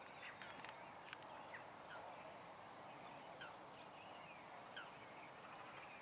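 Faint chirping of small birds: short falling notes about once a second, with a few sharp clicks in the first second and a higher chirp near the end, over a steady low hiss.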